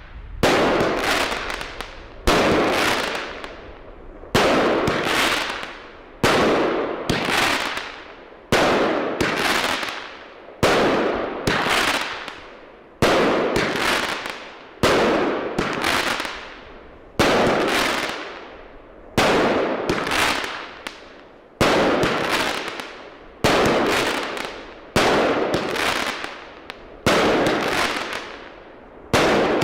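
Weco Funky Stars firework battery firing shot after shot, about one a second, each a sharp bang that fades over roughly a second.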